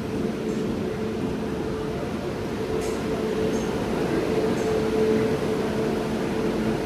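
Steady rumble and hum of a passenger train coach heard from inside, with a few faint clicks.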